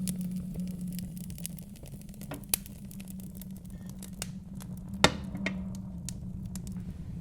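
Wood fire crackling in a fireplace, with scattered sharp pops, the loudest about five seconds in, over a steady low rumble of wind.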